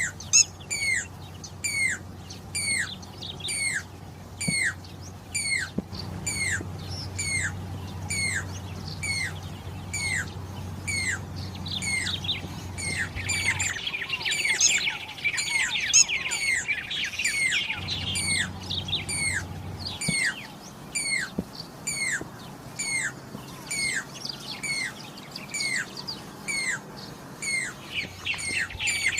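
Jacobin cuckoo (pied crested cuckoo) calling: short whistled notes, each sliding down in pitch, repeated about twice a second without a break. A denser burst of chattering bird notes joins in about halfway through and again near the end.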